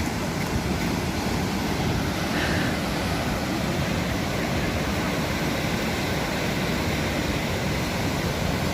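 Sea surf: a steady, even wash of breaking waves.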